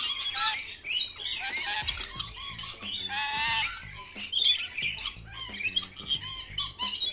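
Several birds chirping and squawking in quick, overlapping calls, with one longer wavering call about three seconds in.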